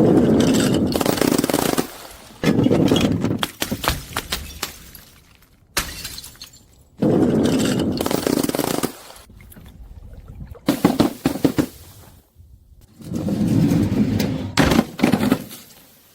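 Glass bottles and other crunchy objects being crushed and breaking: repeated bursts of cracking, crunching and shattering, about six of them, each lasting a second or two.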